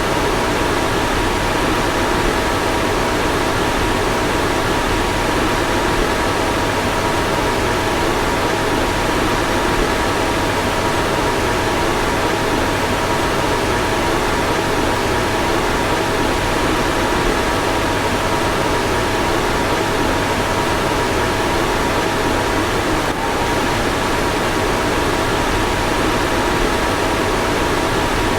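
Car fan blowing steadily: an even rush of air with a faint steady whine of two tones. The tones hitch briefly once, late on.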